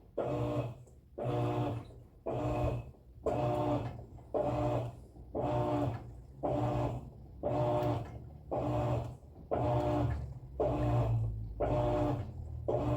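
Electrolux LTE12 top-loading washing machine agitating in its wash cycle: the motor hums in even pulses about once a second as the agitator turns back and forth, with short pauses between strokes.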